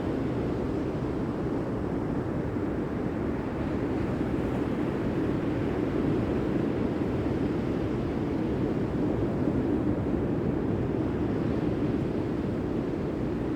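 Steady low rush of sea surf and wind, even throughout with no distinct wave crashes.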